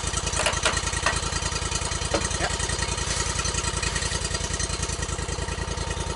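An engine idling steadily, with a few short knocks in the first couple of seconds.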